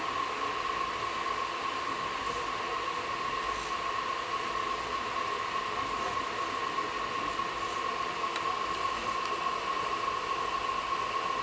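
Steady running noise of a moving passenger train heard from inside an air-conditioned coach: an even hiss with a constant whine.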